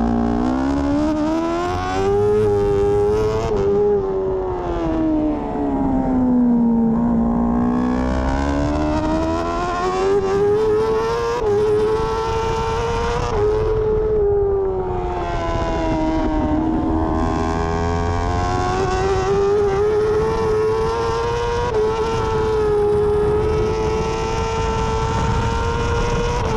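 BMW S 1000 RR superbike's inline-four engine heard from onboard at racing speed, its revs falling and rising again several times through a run of corners. Near the end the revs stay high and nearly steady.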